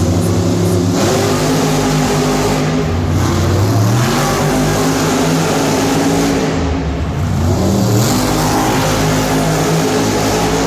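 Monster truck engines running loud and revving, their pitch climbing and dropping again and again.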